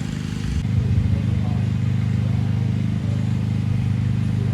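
A motor engine running steadily, a low even drone that sets in after a cut about half a second in.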